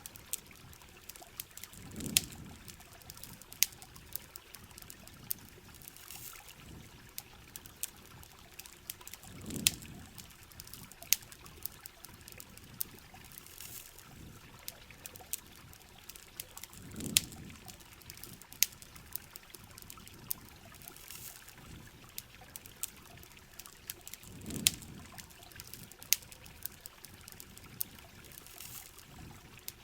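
Steady rain with sharp, irregular campfire crackles, and a short low pouring swell of water four times, about every seven and a half seconds.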